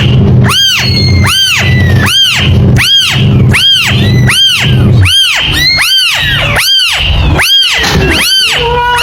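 Kitten meowing over and over, a run of high calls that each rise and fall in pitch, about one every three-quarters of a second and nearly identical to one another.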